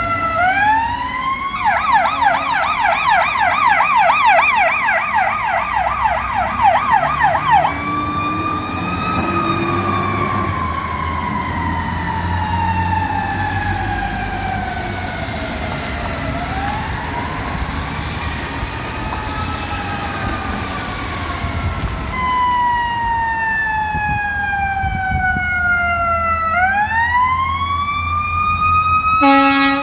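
Fire apparatus sirens on an emergency run: a wail rises into a fast yelp for about six seconds, then switches to slow rising and falling wails, two sirens overlapping for a while, over the low rumble of the trucks' engines. An air horn blast starts right at the end.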